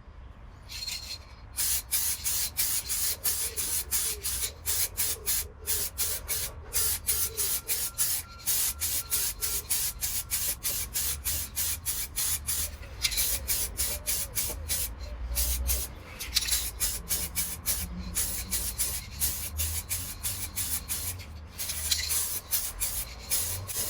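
Aerosol rattle can of clear lacquer spraying in rapid short bursts, several hissing puffs a second, with a few brief pauses as the coat is laid on.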